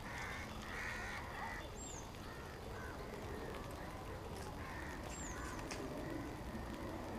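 Birds calling: a few longer calls near the start, about a second in and again about five seconds in, and a short high whistled note that dips at its end, repeating every few seconds.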